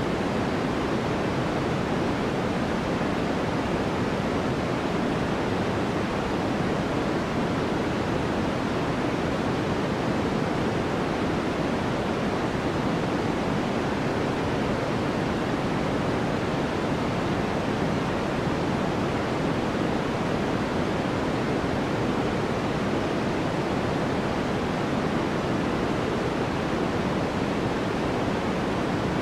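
White-noise background track: a steady, even rushing hiss, deeper than pure white noise, that never changes.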